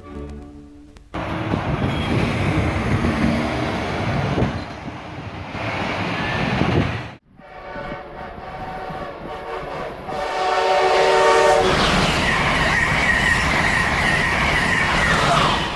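Amtrak trains passing at speed: a loud rush of wheels on rail, then after an abrupt cut a multi-note train horn held steady for about three seconds, followed by another loud pass with a high steady squeal in its last few seconds.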